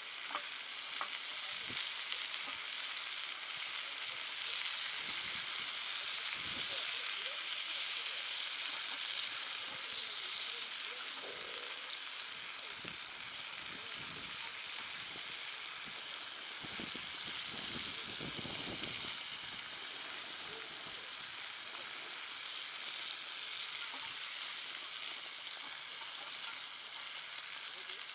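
Meat sizzling on a hot cast-iron Jingisukan grill pan over a wood fire: a steady frying hiss, with a few soft knocks of the meat being turned.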